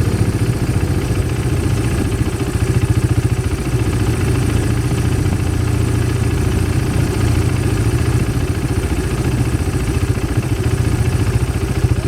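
Quad bike engine idling steadily with an even, rapid pulse.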